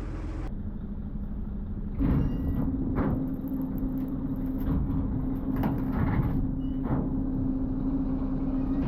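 A machine running with a steady hum, starting about two seconds in, with short knocks or clanks roughly once a second over it.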